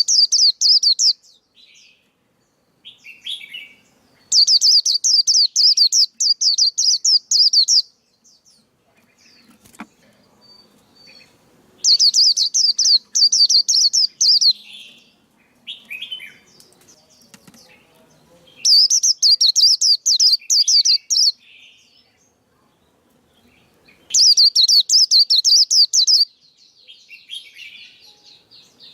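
Male white-eye singing in loud bursts of rapid, high chirping notes, each a few seconds long, repeated five times with softer chirps in between. This is a lure song used to stimulate other white-eyes.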